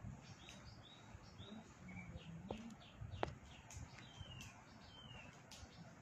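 Faint, short, high bird chirps repeating throughout, many of them falling in pitch, with a single sharp tap a little past three seconds in.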